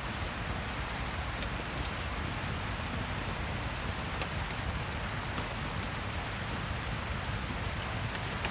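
Rain-and-fireplace ambience: steady rain with scattered small crackles over it.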